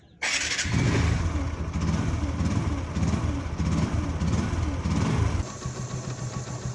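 Motorcycle engine running with repeated revs, then dropping to a quieter steady sound about five seconds in.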